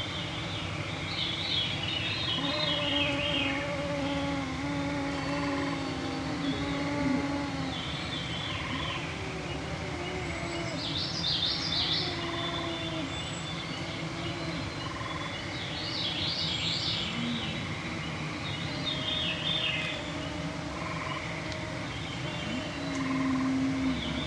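Evening woodland ambience: songbirds singing short, high phrases that recur every few seconds, over the whine of mosquitoes flying close to the microphones, heard as wavering low hums that come and go.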